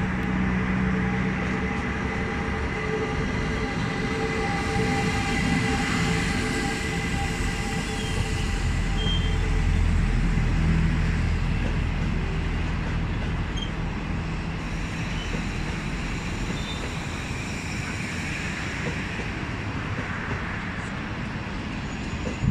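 Electric locomotive pulling a passenger train out of the station: a steady hum with several held tones as the locomotive passes, then the continuous low running noise of the coaches' wheels on the rails, loudest about ten seconds in and easing off after.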